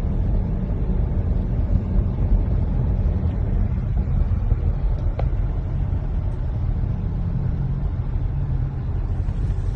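Steady low rumble of a car on the road, engine and tyre noise, with one faint click about five seconds in.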